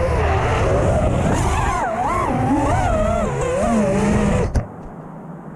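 FPV racing quadcopter's motors whining, the pitch swinging up and down with the throttle. About four and a half seconds in, a sharp knock, and the motor sound stops abruptly.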